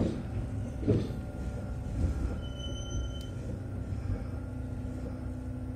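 Kintetsu 6432-series electric train rolling slowly into a station: a steady low rumble with three clunks about a second apart, and a brief high beep near the middle. A steady low hum takes over near the end.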